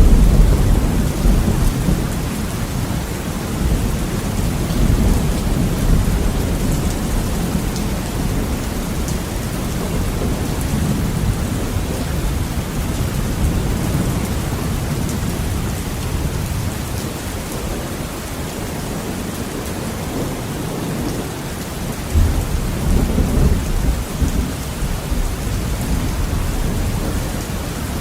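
Heavy rain falling steadily on a window, with thunder rumbling low underneath; the rumble swells near the start and again a few seconds before the end.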